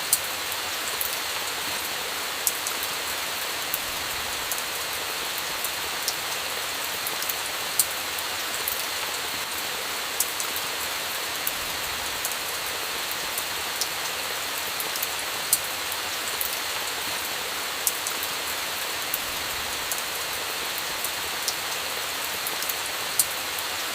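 Steady heavy rain with a campfire crackling, sharp pops coming at irregular moments, a few louder than the rest.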